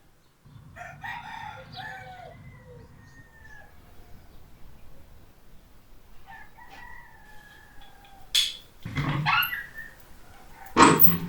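Rooster crowing in long falling calls, twice, followed by a few louder, harsh, short sounds near the end.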